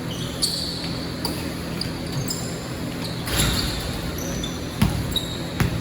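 Basketball game play: a ball bouncing on the court with a few low thuds, and short high squeaks of sneakers on the floor scattered throughout.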